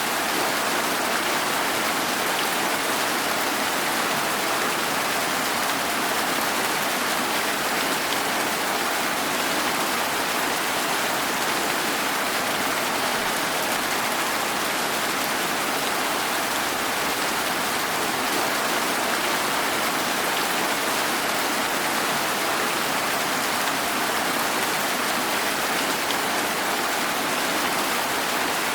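Steady rain falling, an even hiss with scattered drop ticks and no change in intensity.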